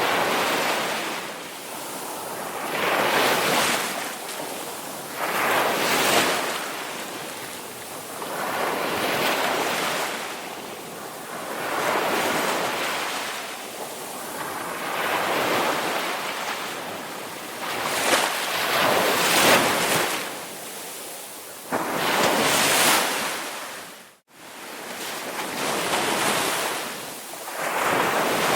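Ocean waves breaking and washing up on a shore, rising and falling in surges every two to three seconds. About three-quarters of the way through, the sound drops out for an instant.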